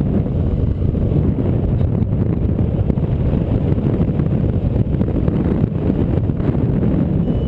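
Strong wind buffeting the microphone in flight: a loud, steady, low rumbling rush with no breaks.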